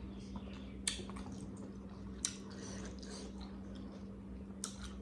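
Close-miked eating of chicken curry with bitter gourd and potato: wet chewing with three sharp smacks, about a second in, past two seconds and near the end. A steady low hum runs underneath.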